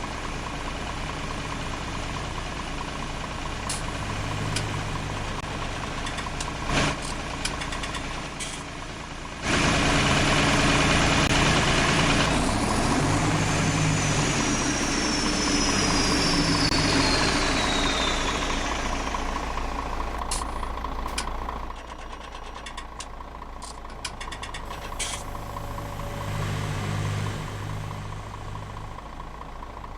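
Old tractor engine running after standing unused for 28 years. It gets louder and revs up and down for about twelve seconds in the middle, with a thin high whine falling in pitch, then settles back to a steady run.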